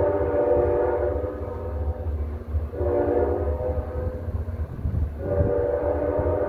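NJ Transit train horn sounding a chord in long blasts: the first ends about two seconds in, a second runs from about three to five seconds, and a third starts just after five seconds, with a low rumble beneath.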